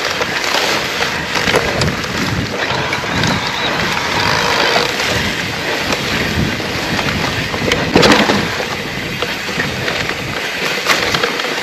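Trek Rail electric mountain bike riding over a rough bridleway: a steady rumble of tyres on rough ground and rattling of the bike, with many small knocks and one louder knock about eight seconds in.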